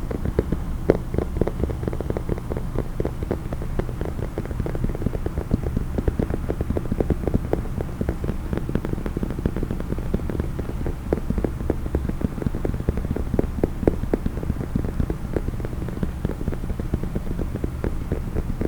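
Rapid, continuous fingertip tapping on a case, many quick taps a second without a break.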